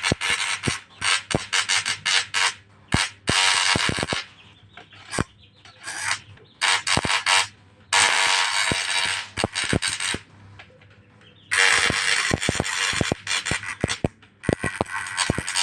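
Small 12-volt machine running in bursts of harsh, scraping noise, stopping and starting about six times, with sharp clicks in the pauses between runs.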